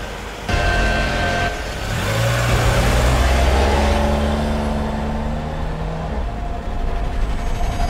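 Car engine accelerating as the car pulls away, a low engine note rising slightly and then holding for a few seconds.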